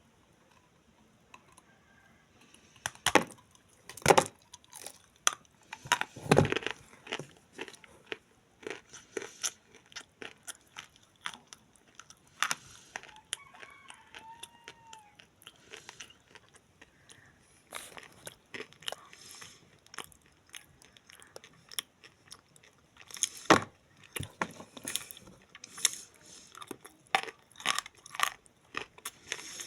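Clay being bitten and chewed, with irregular sharp crunches and quieter crackles in between. The loudest bites come a few seconds in, around six seconds, and again about 23 seconds in.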